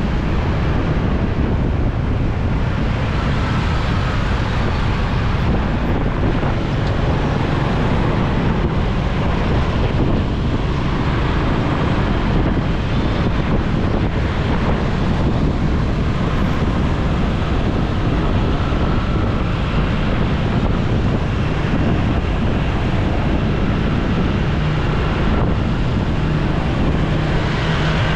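Steady wind rushing over the microphone of a moving motorcycle, with road and traffic noise beneath and faint steady engine tones.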